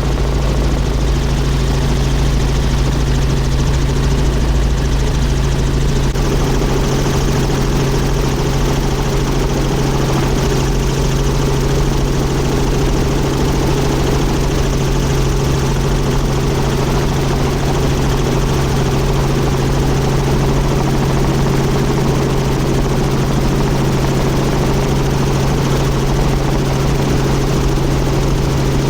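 Helicopter engine and rotor noise during flight: a loud, steady drone with a strong low hum.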